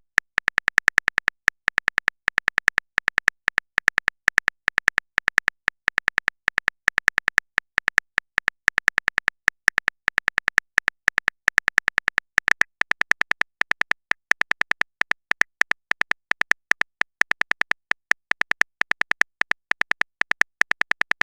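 Phone keyboard typing sound effect: short, sharp, slightly tonal tap clicks in uneven runs of several a second, as text is typed out.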